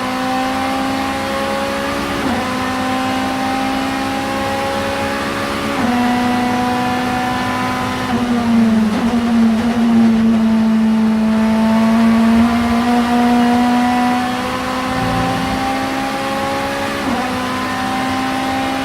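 Vauxhall Vectra supertouring race car's engine pulling hard, its pitch climbing and dropping sharply at upshifts about two and six seconds in. Around eight seconds in the revs fall away and hold low for a few seconds, then it accelerates again with another upshift near the end.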